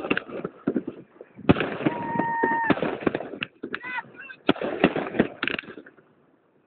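New Year fireworks going off: many sharp bangs and crackles in quick succession. A steady horn-like honk sounds for about a second around two seconds in, and the sound stops abruptly about six seconds in.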